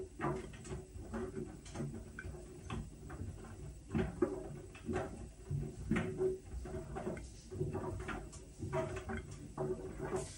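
Whirlpool washing machine running a Steam Refresh cycle: a steady low hum with irregular soft clicks and knocks, several a second.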